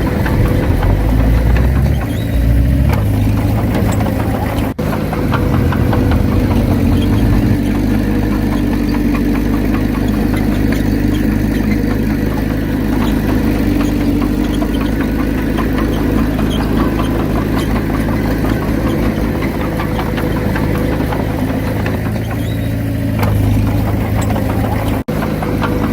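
Diesel engine of heavy earthmoving machinery running steadily, its low note shifting in the first few seconds and then holding. The sound drops out for an instant twice, near five seconds and near the end.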